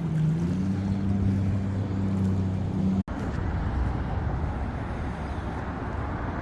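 An engine running with a steady low hum that dips slightly in pitch just after the start. About three seconds in it cuts off abruptly, and an even rumbling noise follows.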